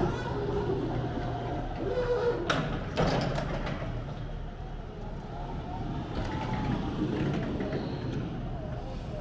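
Crown RR5225-35 electric stand-up reach truck being operated: a steady motor and hydraulic hum with a wavering whine, and two sharp clunks about two and a half and three seconds in.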